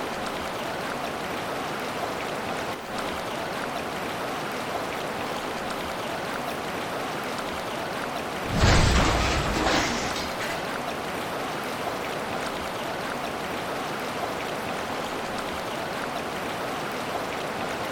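A steady hiss of heavy rain. About eight and a half seconds in comes a louder rushing surge that lasts about a second and a half.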